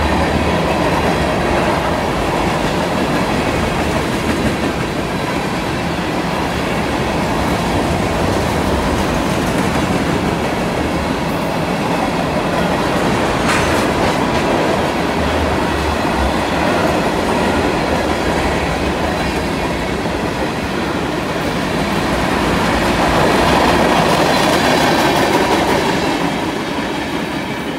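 CN freight train cars rolling past with a steady rumble of wheels on rail and a rhythmic clickety-clack, with a single sharp clank about halfway through. It swells a little before fading near the end.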